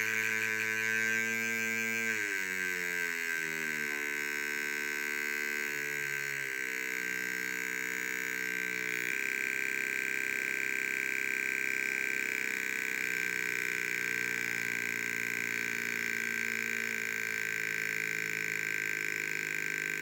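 Two 555 timer oscillators driving a resonance speaker, making a continuous electronic buzz of several tones at once. In the first half the lower tones step and slide down in pitch, then hold nearly steady.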